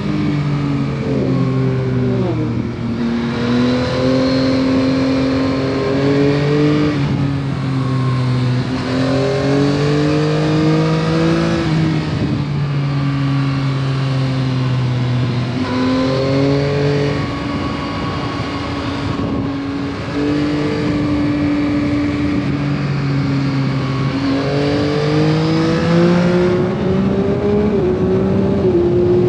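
Yamaha MT-09 SP's three-cylinder engine through its stock exhaust, ridden on the road, its pitch climbing and dropping again and again as it accelerates and eases off.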